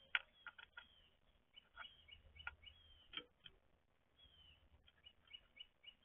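Wild songbirds calling with short, high, down-slurred notes repeated many times, mixed with sharp clicks and taps, the loudest click right at the start.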